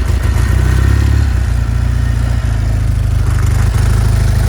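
1974 Norton Commando MKIIA's air-cooled parallel-twin engine running steadily just after a cold start.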